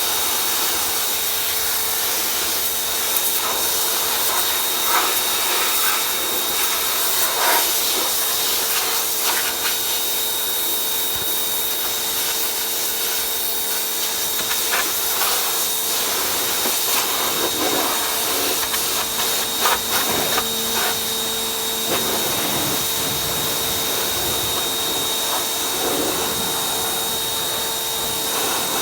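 Pressure washer running: a steady motor hum under the hiss of its water spray, with a few faint knocks here and there.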